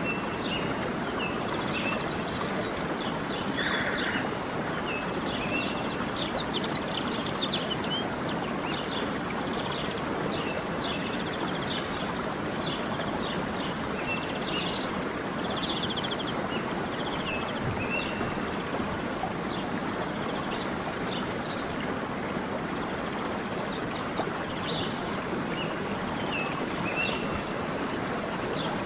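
A stream running steadily, with many small birds chirping over it. One bird repeats a short falling phrase about every seven seconds.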